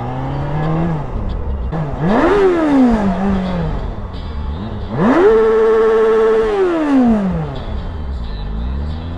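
Motorcycle engine accelerating hard twice: the revs climb steeply, drop back, then climb again and are held high for over a second before falling away as the bike slows, with wind rumble underneath.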